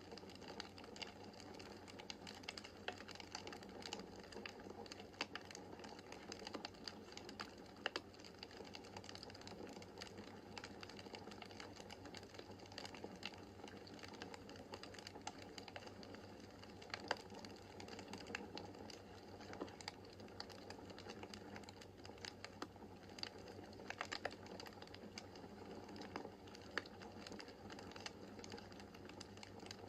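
Wood fire in a fireplace crackling: a soft steady hiss full of irregular small clicks, with a few sharper, louder pops now and then.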